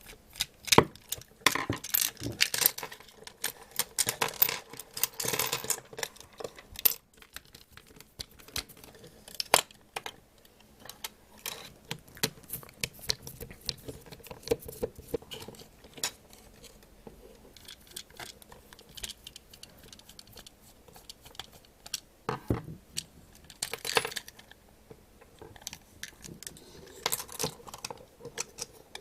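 Plarail Edward toy locomotive being taken apart by hand: scattered small plastic clicks, taps and rattles of the body shell and parts, busiest at the start and near the end with a sparser stretch in the middle.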